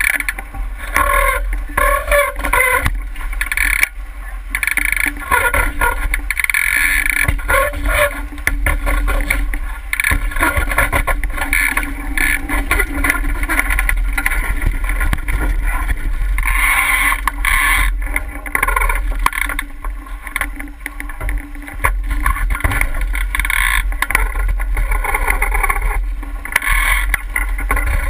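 Wind rumbling on the microphone over the wash of water along the hull of a 49er skiff sailing upwind, rising and falling unevenly.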